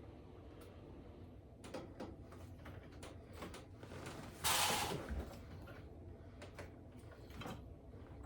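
Scattered small clicks and knocks of parts and tools being handled, with one louder brief scrape about halfway through.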